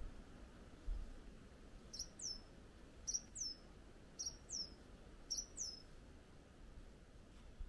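A bird calling: four high phrases, each of two quick notes sliding downward, repeated about once a second from about two seconds in.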